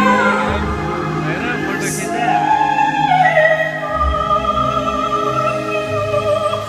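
Operatic singing over an orchestra: a voice holding long notes with vibrato, one held note stepping down in pitch and held on.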